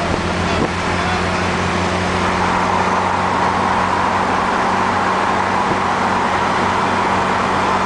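Car engine running with a steady, unchanging drone beside the camera, as from a Holden VL Commodore Turbo, with a hiss of road and wind noise building about two seconds in and then holding.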